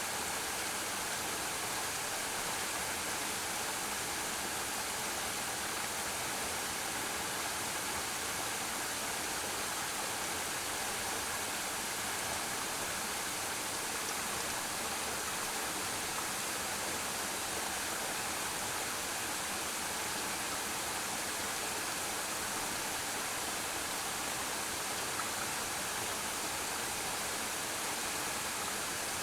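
Waterfall pouring steadily into a pool, a constant even rush of falling water with no breaks.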